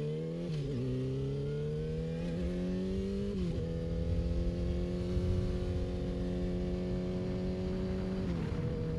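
Yamaha R6 inline-four sport bike engine accelerating and shifting up. The engine note climbs, drops at a gear change about half a second in, climbs again, and drops at another shift about three and a half seconds in. It then holds a steady pitch while cruising, until its pitch drops once more near the end, with a low rumble of wind underneath.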